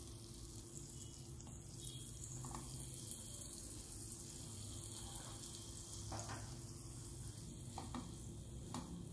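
Buttered pav buns sizzling faintly in a hot pan, with a few soft taps as the buns are set down and pressed.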